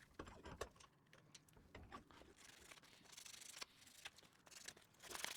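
Faint, intermittent rubbing of abrasive on a freshly hardened steel broach blank, cleaning off the scale so the oxide colour can be seen when it is tempered, with a few small clicks.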